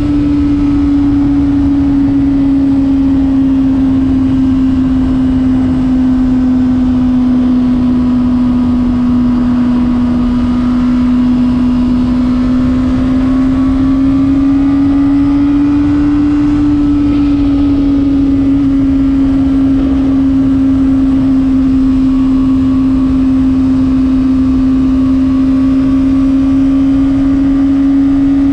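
Honda CBR600RR's inline-four engine running at steady high revs under way, its pitch sagging slightly, rising briefly about halfway through, then holding steady again, over a constant rush of wind noise.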